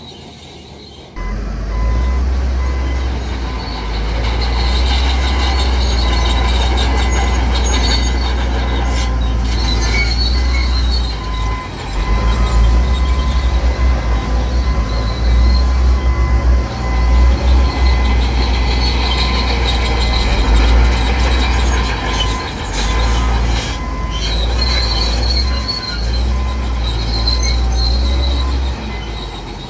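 Crawler bulldozer working, its diesel engine running with a heavy low rumble that starts about a second in, while its steel tracks squeal on and off.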